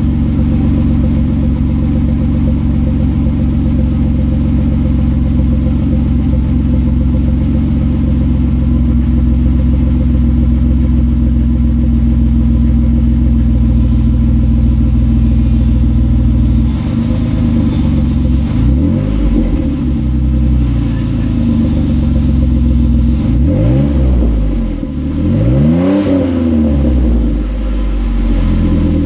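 Jeep Wrangler JK's 3.8-litre V6 exhaust through a Thrush chamber muffler and a shortened 3-inch pipe after the Y-pipe. It idles steadily, then the throttle is blipped a few times in the second half, the note rising and falling with each rev.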